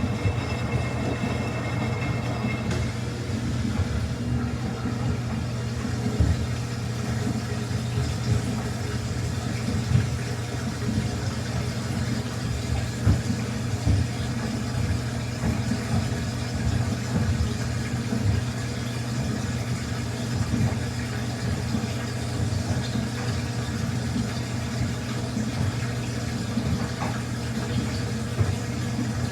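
Samsung washing machine running with a steady motor hum and scattered soft knocks.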